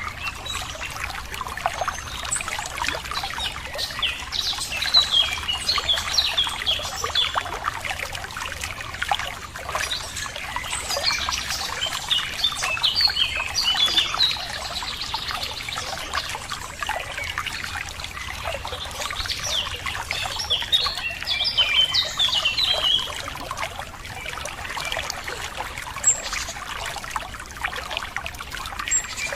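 Running water trickling and splashing steadily, with songbirds chirping in quick bursts of high notes three times.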